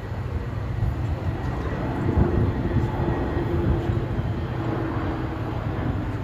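Jet engine noise from an Airbus A321neo XLR airliner in flight: a steady low rumble and rushing noise that swells a little about two seconds in, with a held hum on top for a few seconds.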